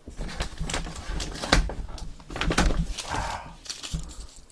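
Handling of food-delivery packaging on a table: a series of knocks and thumps, the loudest about one and a half seconds in, with a crinkling rustle about three seconds in.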